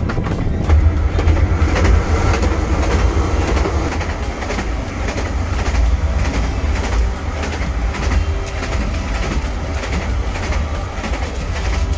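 Narrow-gauge train running along the track, heard from inside a carriage: a steady low rumble with wheels clicking over the rail joints, echoing as the train passes through a tunnel.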